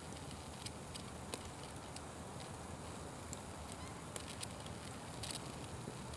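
Campfire crackling: a steady hiss with sharp pops scattered irregularly, several close together a little past five seconds in.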